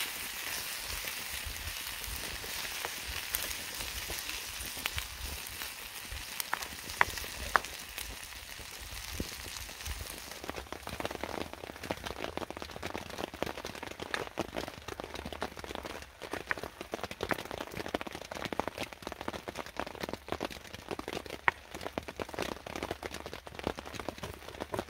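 Rain dripping and pattering in irregular drops. A steady hiss fills the first ten seconds and then eases, leaving scattered sharp drip ticks.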